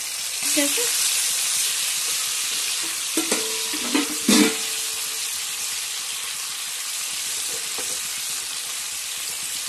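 Ginger-garlic paste sizzling in hot oil in a non-stick kadhai while a silicone spatula stirs it. The sizzle swells about half a second in, and there are a few brief spatula knocks and scrapes against the pan a little past the middle.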